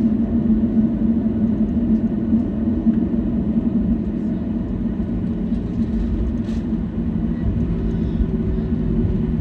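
Steady low cabin hum inside a Boeing 737-800 on the ground after landing, with a second, lower tone joining in about eight seconds in.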